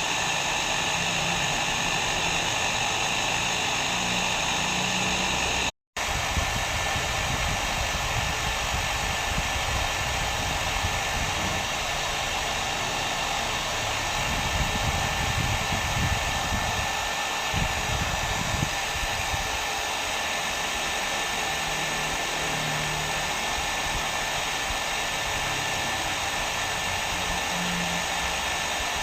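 Hair dryer blowing steadily with an even rushing noise. It cuts out completely for a split second about six seconds in, then carries on with a deeper, rumblier tone.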